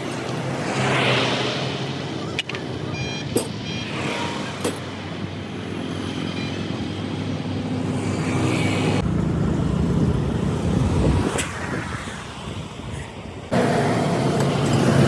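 Motor vehicle engine running steadily, with a few sharp metallic clicks in the first few seconds. The sound changes abruptly twice, about nine and thirteen and a half seconds in.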